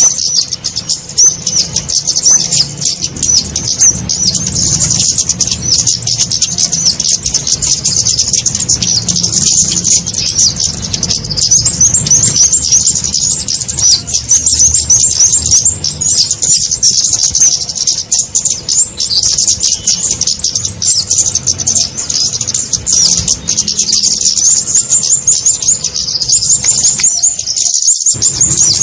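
Lure-call recording of the kemade, a small songbird: rapid high-pitched chirps and twitters repeating densely without pause, over a low hum.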